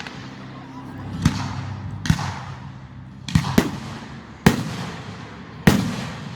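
Fireworks shells bursting overhead: six sharp bangs at uneven intervals, two of them in quick succession, each trailing off in a short echo.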